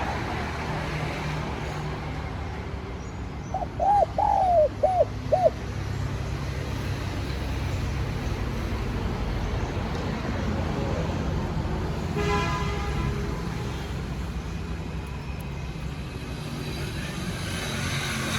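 Spotted dove cooing a short phrase of about five notes, about four seconds in, over a steady low traffic rumble. A brief pitched, horn-like sound comes a little past the middle.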